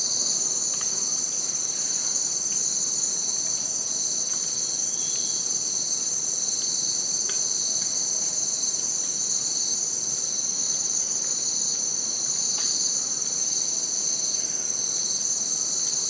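A steady, unbroken chorus of insects: several shrill high tones held together without a break, over a soft background hiss.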